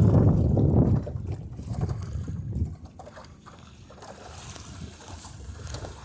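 Wind rumbling on the microphone, with water noise aboard a small sailboat under way. It is heavy for about the first second, then eases to a quieter wash.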